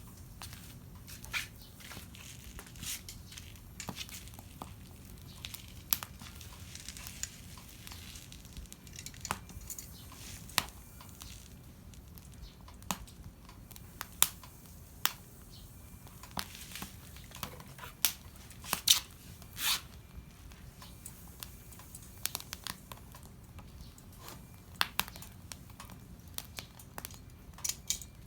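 Irregular crinkling, with sharp snaps and crackles scattered throughout and a few louder ones around the middle: paper and kindling being handled and broken while a campfire is prepared.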